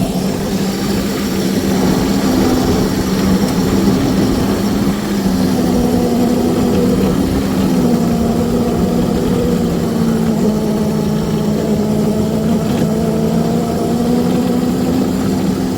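Small engine of a backyard railroad locomotive running steadily as it plows snow along the track. Its pitch sags slightly partway through and then comes back up.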